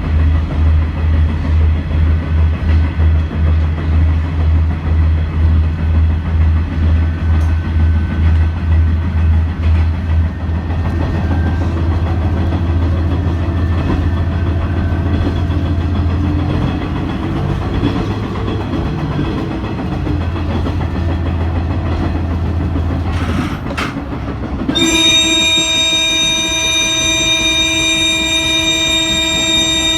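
Train running on the track with a low rhythmic pulsing at first, then a steady rumble, until its horn sounds one long, steady blast from about 25 seconds in.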